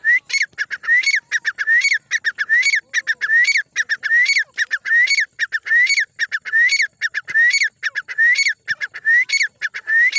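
Black francolin calling: a loud, harsh call phrase of rising notes repeated over and over without pause, a little more than one phrase a second.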